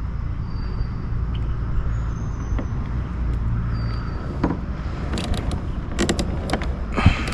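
Steady low rumble, with a cluster of sharp clicks and knocks from about five to seven seconds in.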